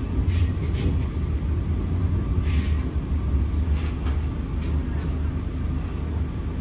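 KTM Express Rakyat passenger train running along the track: a steady low rumble of wheels on rail, with brief faint higher hisses about two and a half and four seconds in.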